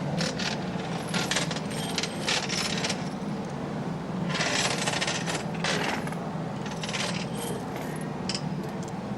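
Hand-tool work on a wooden hammer stock: irregular scraping and clinking strokes, some short and some about a second long, over a steady low hum.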